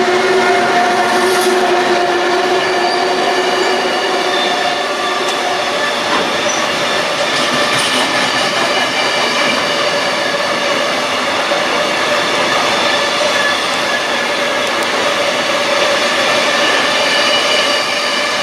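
A Trenitalia train passing close by: a steady rumble of wheels on the rails, with several whining tones held over it throughout.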